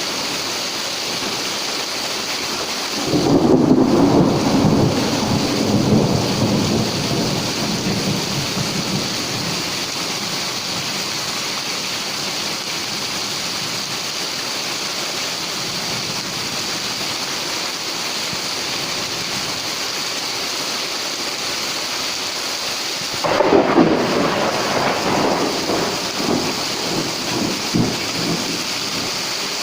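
Heavy rain falling steadily, broken by two claps of thunder, the second some twenty seconds after the first, each rumbling on for several seconds as it fades.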